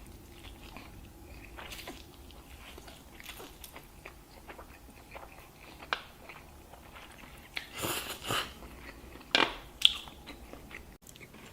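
A person eating close to the microphone, biting and chewing a large mouthful of food, with a few louder, sharper bites around the middle and in the second half.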